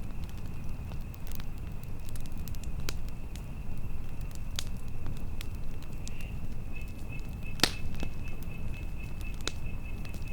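Campfire burning, with irregular sharp crackles and pops over a low rumble of flames and wind; one pop about three-quarters of the way through is the loudest. A thin, steady high trill runs behind it and turns pulsing about two-thirds of the way in.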